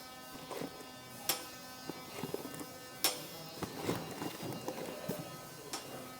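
Access panel doors for a progressive cavity pump being handled on a workbench: a few sharp knocks and light clatter of the panels being set down and moved, over a steady electrical hum.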